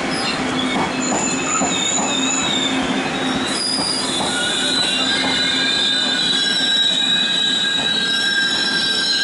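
TRA push-pull Tze-Chiang express coaches rolling along the platform as the train pulls in. Several high, steady wheel and brake squeals sound over a continuous rumble of the wheels on the rails.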